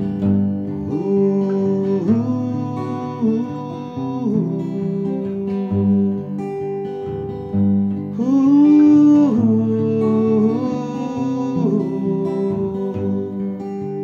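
Acoustic guitar playing an instrumental break between sung verses of a folk-style song, with a melody line that bends and glides in pitch over the chords.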